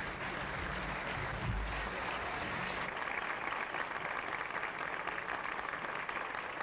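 Audience applauding steadily; the clapping turns duller about three seconds in.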